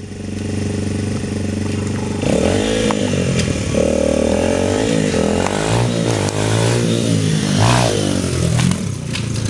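Dirt bike engine running steadily, then revving up and down from about two seconds in.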